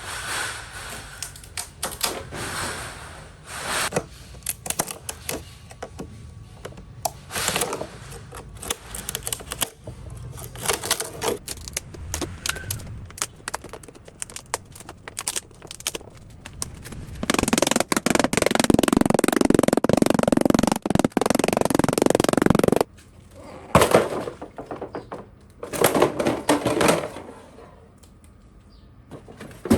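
Workshop fabrication sounds: a run of irregular clicks, taps and knocks, then a loud steady noise for about five seconds past the middle, followed by a few shorter loud bursts.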